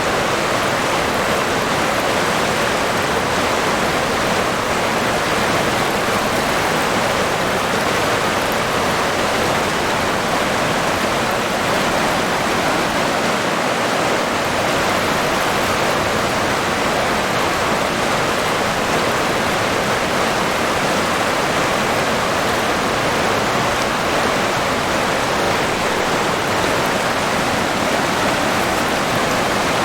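River water flowing over rocks, a steady rushing that stays even, with no breaks or separate splashes.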